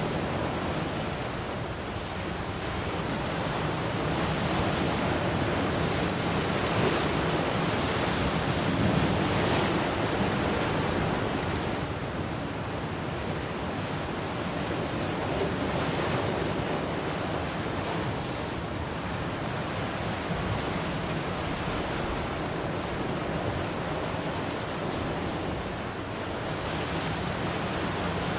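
Ocean surf: waves breaking and washing in a continuous rush that swells and eases every several seconds, with some wind on the microphone.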